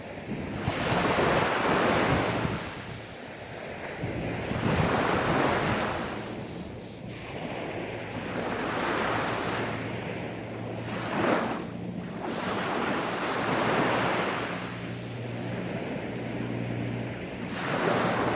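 Gentle sea waves breaking and washing up a sandy beach, each surge swelling and falling away every few seconds, about six times. From about halfway a faint steady low hum runs underneath.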